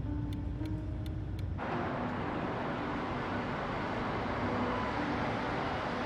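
Low, steady road rumble with a few faint held tones, cut off suddenly about a second and a half in and replaced by a steady hiss of street traffic.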